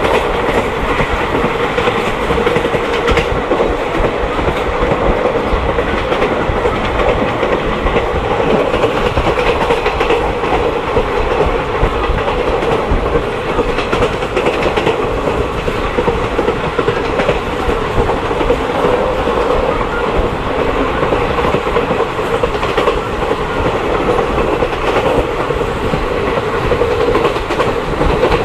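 Mahamana Express passenger train in motion: a steady loud rumble and rattle, with faint clicks of the wheels over the rail joints.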